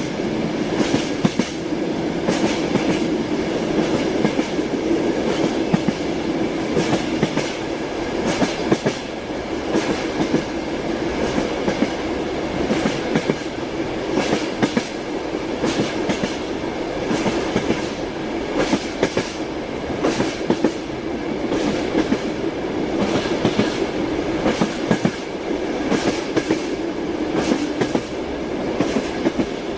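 Train wheels clicking over rail joints and welds, with a continuous rolling rumble, heard from inside a moving passenger train.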